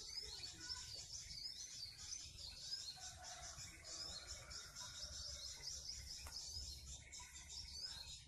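Many small birds chirping busily and continuously in quick, high-pitched notes, over a low rumble.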